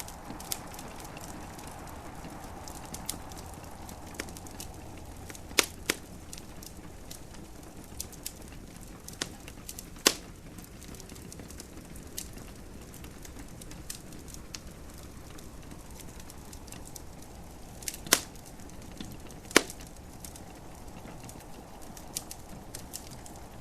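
Wood fire crackling, with irregular small ticks and a handful of loud sharp pops, over a steady soft hiss of gentle rain.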